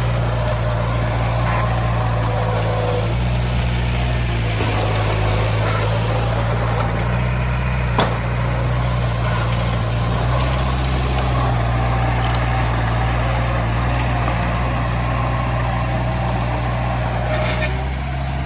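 Heavy diesel earthmoving machinery running steadily under load, its low engine note shifting a little in places, with a sharp knock about eight seconds in.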